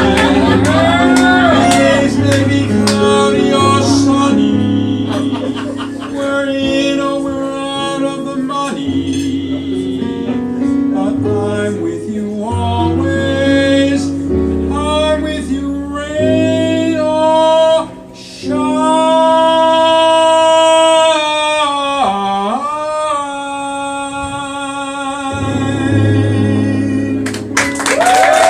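A singer holds long notes with vibrato over piano accompaniment, ending a jazz standard. There is a short drop in level about 18 seconds in, and a swooping vocal slide a few seconds later.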